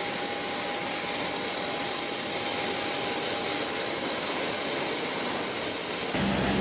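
Jet aircraft noise: a steady loud hiss with a high, thin whine. About six seconds in, the sound changes abruptly to a lower hum.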